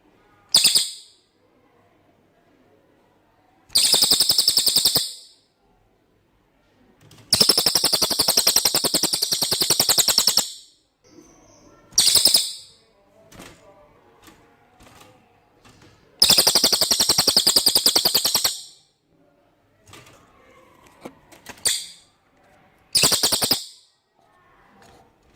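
Cililin bird singing in loud, high-pitched, rapid trills, delivered in bursts from a fraction of a second to about three seconds long with short pauses between. This is cililin song as used as a master call for training white-rumped shamas.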